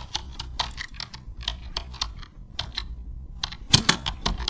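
A run of quick, irregular clicks and taps, several a second, loudest a little before the end.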